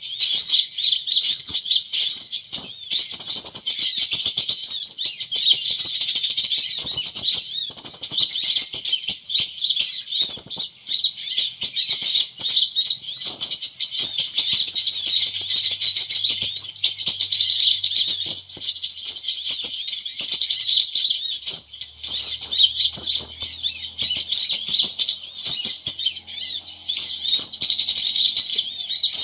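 Continuous dense, high-pitched chirping and twittering of small birds, many short rapid notes overlapping without a break, with faint scattered rustles and clicks beneath.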